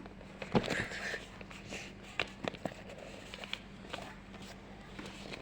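Hands handling paper and double-sided tape: scattered light taps, clicks and rustles, the loudest about half a second in.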